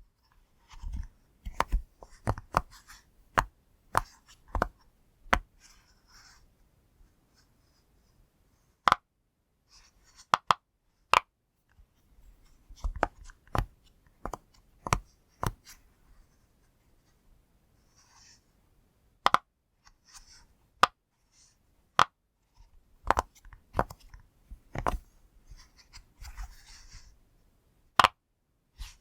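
A push-pop fidget toy's bubbles being pressed: sharp single pops at irregular intervals, sometimes several in quick succession, with soft handling rustle between them.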